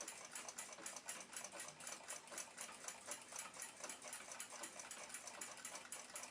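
Faint, fast, even clock ticking, about five ticks a second.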